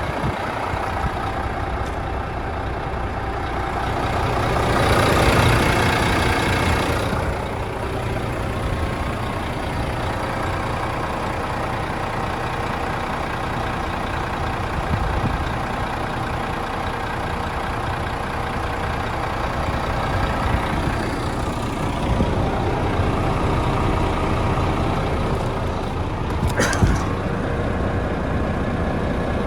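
Renault T460 tractor unit's diesel engine running steadily at idle. About five seconds in there is a louder rush of hissing noise lasting around two seconds, and a short sharp burst comes near the end.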